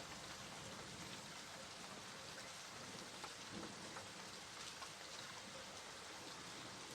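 Steady rain falling, with a constant hiss and many small drops ticking on a surface.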